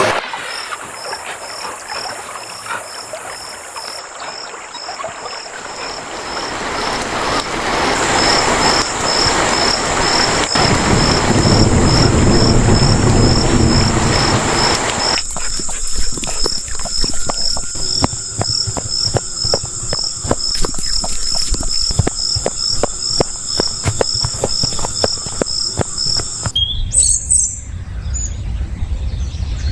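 Night countryside ambience: insects chirping in an even rhythm about twice a second over a steady high insect trill, with a wash of rain noise that swells in the first half and gives way to light dripping patter. The chirping stops abruptly near the end.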